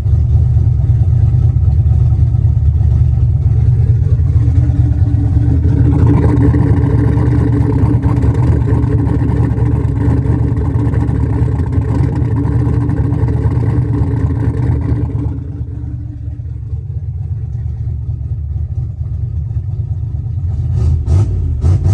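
Turbocharged 383 stroker small-block Ford V8 in a Fox-body Mustang idling with a steady low rumble. It gets somewhat quieter about two-thirds of the way through, and a quick run of sharp clicks comes near the end.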